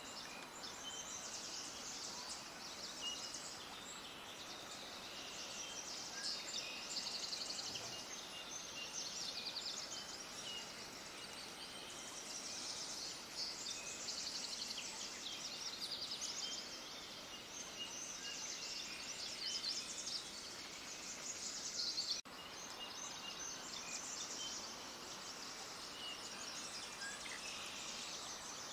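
A chorus of many small birds chirping and twittering, in dense runs of quick high chirps over a faint steady hiss. The chorus breaks off abruptly for an instant about three-quarters of the way through.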